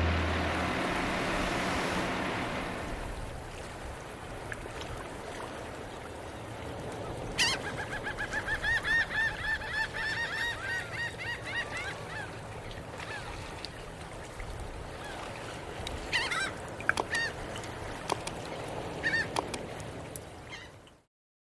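Music fading out, then a run of rapid, repeated bird calls starting about seven seconds in, with a few more calls near the end.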